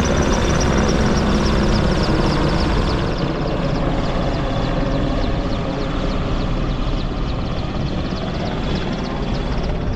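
Merlin military helicopter flying low nearby, its rotor beating rapidly over the running turbine engines. The sound is steady and loud, easing a little after about three seconds.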